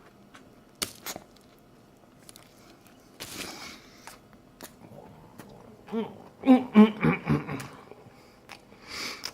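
A man eating a burger loaded with chili: mouth clicks and chewing, a hissing breath a few seconds in, then a run of wordless voiced sounds, like grunts and groans of effort, about six to seven and a half seconds in, and another hissing breath near the end, his reaction to the chili heat.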